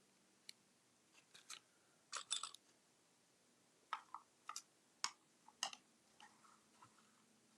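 Faint, scattered clicks and short rustles of small objects and paper being handled, about a dozen in all, the loudest in the middle and fewer and fainter near the end.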